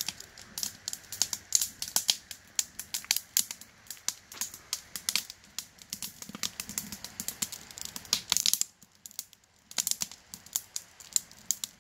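Wood campfire of burning logs crackling, with many irregular sharp pops and snaps; the pops let up briefly about nine seconds in.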